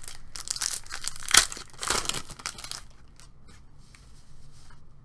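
Trading-card pack wrapper crinkling and being torn open, with a sharp rip about a second and a half in and another burst of tearing just after, then quieter rustling.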